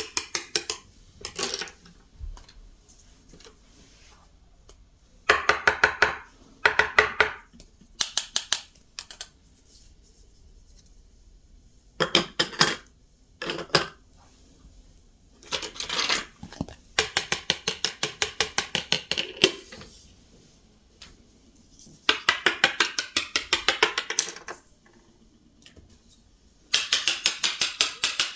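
Small plastic toy kitchen pieces clicking in quick runs of evenly spaced clicks, about ten a second, each run lasting one to two seconds with short pauses between.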